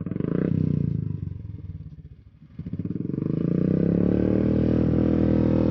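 Motorcycle engine starting up and running, then dropping almost to a stall about two seconds in before picking up again and running steadily.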